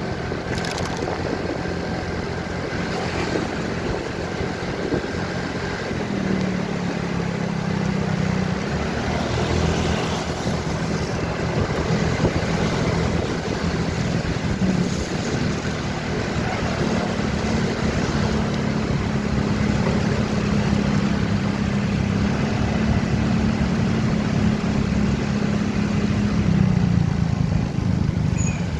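Motorcycle engine running under way, its pitch stepping up and easing back a few times as the bike speeds up and slows, over steady wind and road noise on the rider's microphone.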